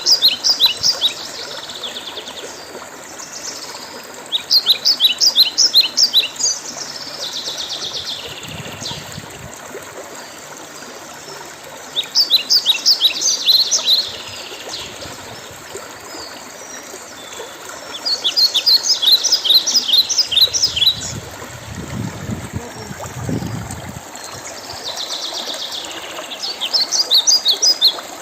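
A songbird repeating a song phrase of rapid, high trilled notes about every six to seven seconds, over the steady sound of running water. A brief low rumble comes about two-thirds of the way through.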